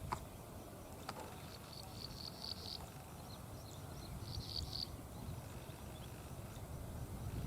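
A tiny field bird calling: rapid series of short, high-pitched notes in two bursts, about two seconds in and again about four and a half seconds in. A sharp click comes just at the start, with another about a second later.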